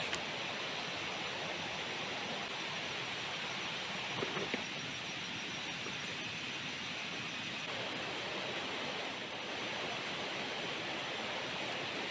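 Heavy rain falling steadily, an even hiss, with a thin high steady whine above it and a couple of small knocks about four seconds in.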